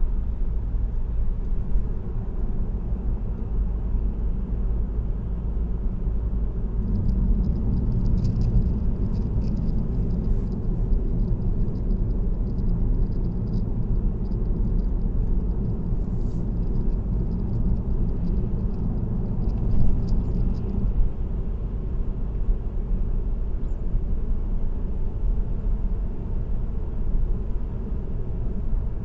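A car cruising on an expressway: a steady low hum and rumble of tyres on the road. Faint high ticking comes and goes from about seven to twenty seconds in.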